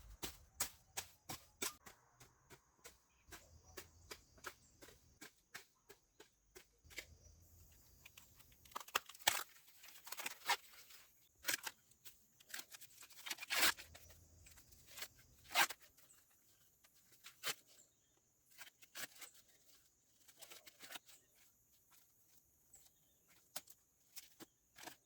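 Corn plants and weeds being broken and torn by hand: a run of irregular sharp snaps and crackles, with a few longer, louder rips.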